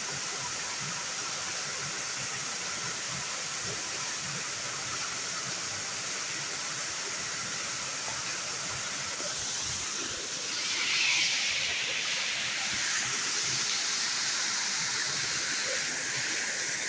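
Waterfall: water falling and splashing in a steady rush. About ten seconds in it gets louder and brighter.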